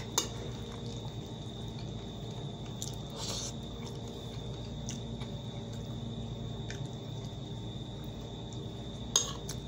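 Wet chewing and smacking of a man eating a juicy tomato and fried potatoes, with a few short clicks, the loudest near the end. A steady high-pitched tone sounds throughout.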